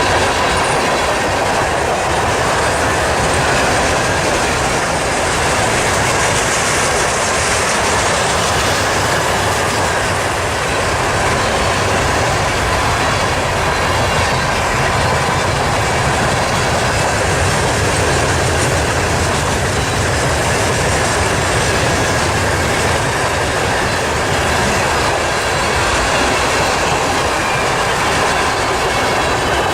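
Railcars of a Canadian Pacific freight train rolling steadily past, their wheels rumbling and rattling on the track, with faint thin ringing tones from the wheels on the rails.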